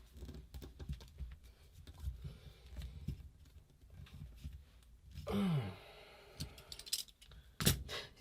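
Scattered small clicks and taps of hand tools and metal parts being handled while working on a paintball marker, with a short falling breathy sigh about five seconds in and a sharper knock near the end.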